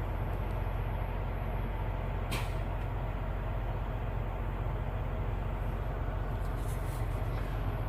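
Steady low rumble of an idling semi-truck diesel engine, with one brief sharp click about two and a half seconds in.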